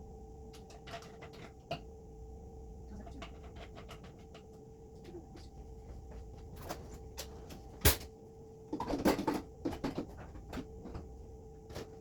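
Kitchen cleaning sounds: scattered clicks and knocks of things being handled, with one sharp knock about eight seconds in and a burst of clattering a second later, over a steady hum.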